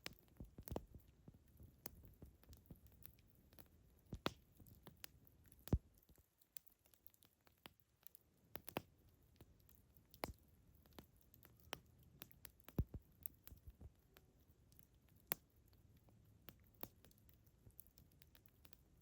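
Campfire crackling: burning wood giving sharp, irregular pops and snaps, a few much louder than the rest, over a faint low background hush.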